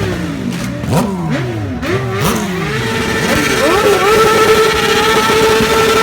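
Motorcycle engines revving, with quick throttle blips rising and falling in pitch. About three seconds in, one engine climbs to high revs and holds there steadily.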